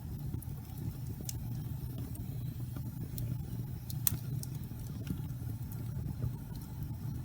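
Wood fire burning in a fireplace: a steady low rumble with scattered sharp crackles and pops of burning wood, the loudest pop about four seconds in.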